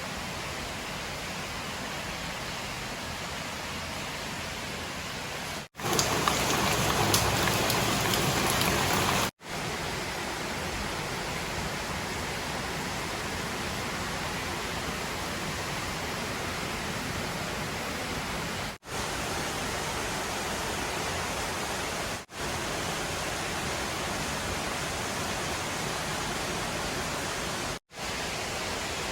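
Steady rain falling, an even hiss that drops out abruptly several times and is louder for a few seconds about six seconds in.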